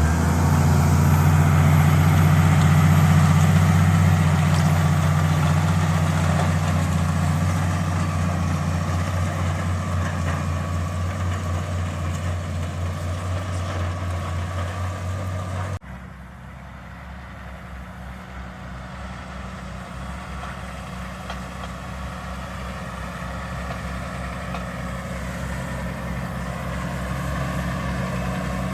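Valtra Q Series tractor engine running steadily under load while pulling a plough. About halfway through the sound cuts abruptly to a quieter engine drone that grows gradually louder, as the tractor draws nearer.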